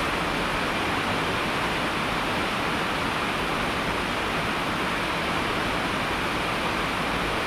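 Steady rain falling: an even, unbroken hiss of rain with no separate drips, thunder or other sounds standing out.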